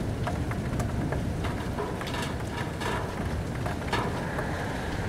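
Steady rainstorm: rain falling over a low, continuous rumble, with a cluster of sharp crackling drop hits between about two and four seconds in.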